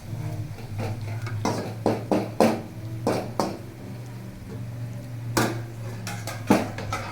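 A spoon knocks and scrapes against a pan as frying onions are stirred: about eight sharp clanks at uneven intervals, over a steady low hum.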